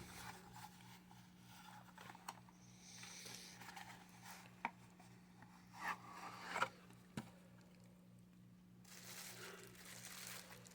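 Faint handling of a toy's cardboard box and packaging as it is opened: soft rubbing and scraping with a few short clicks, over a steady low hum.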